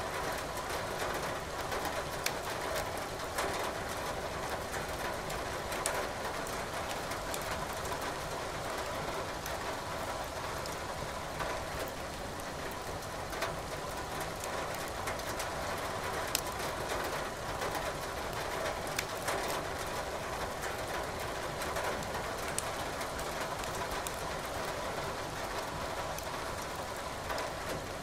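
Steady rain with a wood fire crackling, sharp pops and snaps scattered through it.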